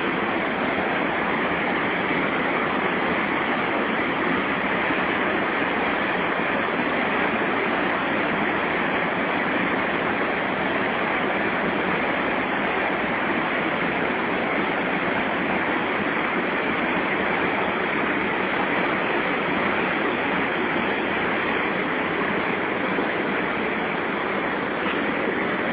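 Steady rush of water pouring through the Cachoeira de Santo Antônio rapids on the Madeira River, an even roar with no change in level.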